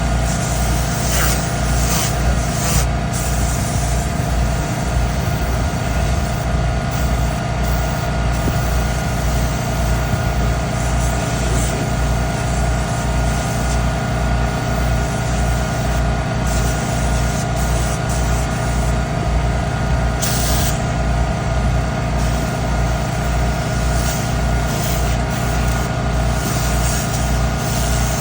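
Air compressor running with a steady low throbbing pulse, while a compressed-air blow nozzle lets off short bursts of hissing air now and then.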